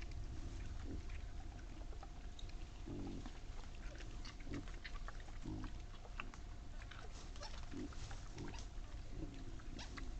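Wild boar grunting in short low calls every second or two while feeding, with many scattered crunching and chewing clicks.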